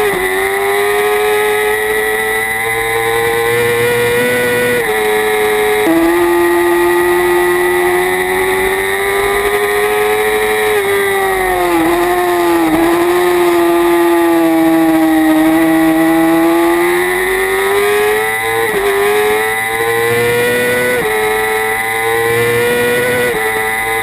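Kawasaki Ninja ZX-6R racing motorcycle's engine heard onboard at high revs, its pitch climbing steadily through each gear with quick drops at the gear changes. Around the middle the revs sag and wobble before climbing again.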